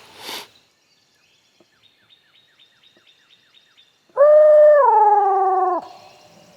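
A loud howl of about one and a half seconds, starting about four seconds in, held on one pitch and then dropping lower before it cuts off. Faint high bird chirps, about four a second, come before it.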